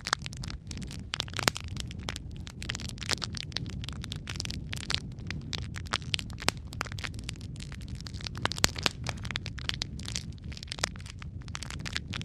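Wood fire burning in a fireplace: logs crackling and popping in quick, irregular snaps over a steady low rumble of flame.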